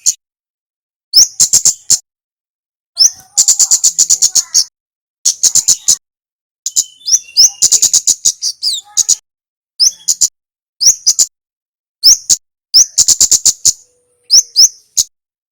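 Male kemade (kemlade merah) singing: rapid rattling series of sharp, high chip notes in bursts of about a second, mixed with short rising whistled notes, repeated after brief pauses.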